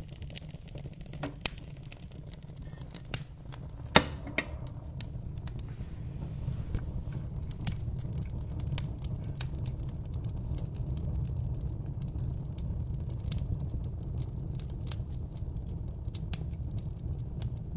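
Wood fire in a fireplace crackling with irregular sharp pops over a steady low rumble; one loud pop about four seconds in.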